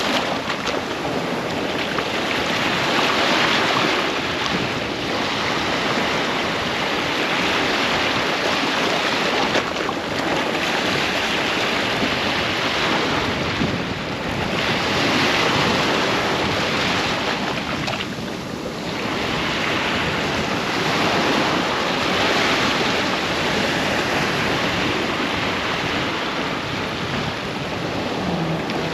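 Ocean surf breaking on the shore: a continuous wash of waves that swells and eases every few seconds.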